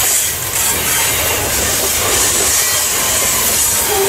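Covered grain hopper cars of a freight train rolling past: a steady rumble of steel wheels on the rails with a loud hiss over it.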